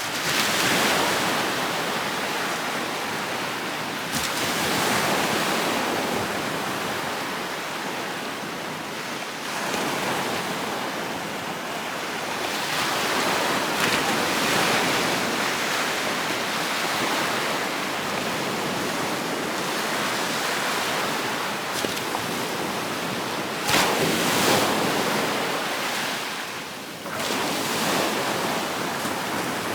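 Gulf surf breaking and washing up the beach. It swells and eases every few seconds, a broad steady rush of water.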